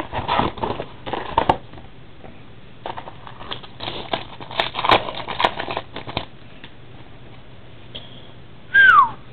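Crinkling and rustling of trading-card packaging being handled and opened, in irregular bursts. Near the end comes one short whistle that falls in pitch.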